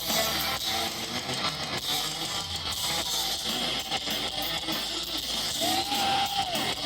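Heavy metal music led by electric guitar, with one held, bent note sliding up and back down about six seconds in.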